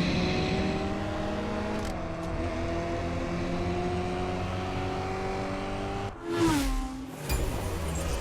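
Suzuki Swift's engine running at steady revs, its pitch slowly climbing, then about six seconds in a short sharp rev whose pitch falls away quickly.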